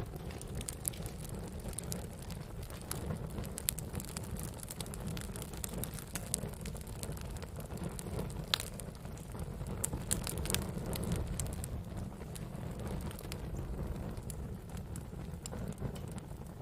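Wood campfire crackling: a steady low rumble of burning wood with frequent sharp pops and snaps, one louder pop about eight and a half seconds in.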